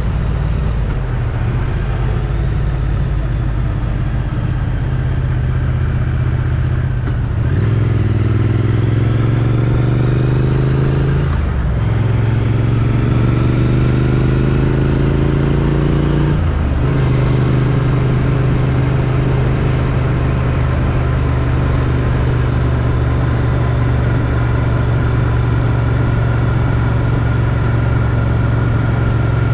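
Triumph Street Twin's 900 cc parallel-twin engine through its stock exhaust, running under way. It pulls up in pitch twice, each pull cut off by an upshift, about 11 and 17 seconds in, then holds a steady cruise.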